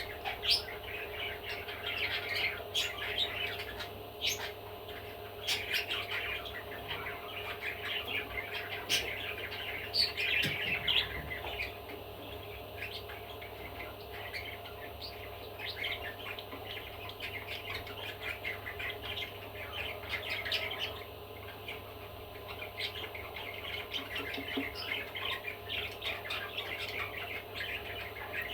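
Budgerigar chattering: a rapid stream of short chirps and squawks, busiest in the first half and sparser later, over a steady background hum.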